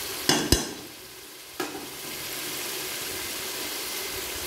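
Kofta masala sizzling in a metal pot in the ghee it has released, the sign that the masala is fully fried. A metal slotted spoon knocks against the pot three times in the first two seconds, then a steady sizzle.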